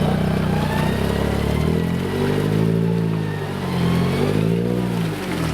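Engine of an off-road competition vehicle running steadily, then revved up and back down twice in the second half.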